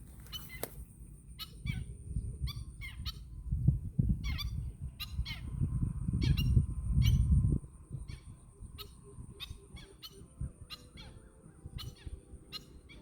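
A small songbird calling over and over: short, sharp, downward-sweeping notes, about two a second, loud for the size of the bird. A low rumble swells up under the calls between about 2 and 7 seconds in.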